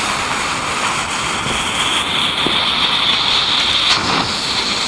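A lit firework burning with a loud, steady hiss, its higher hiss rising a little about halfway through.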